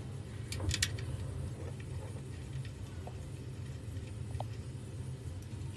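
A few light clicks and taps from hand work on a washing machine's pump mounting, the sharpest pair just under a second in, over a steady low hum.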